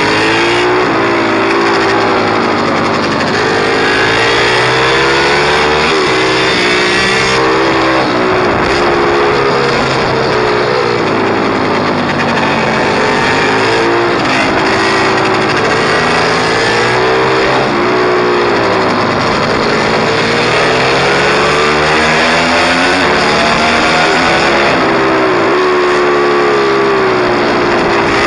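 Pit bike engine revving up and down over and over, its pitch climbing as it accelerates and dropping back every few seconds as the bike is ridden hard.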